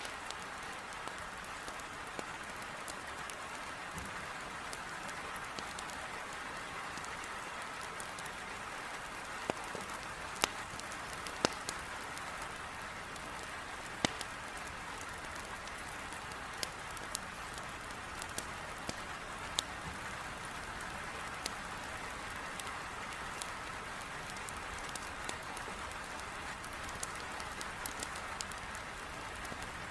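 Heavy rain falling in a steady hiss, with a wood fire crackling over it: scattered sharp pops, a few louder ones clustered around the middle.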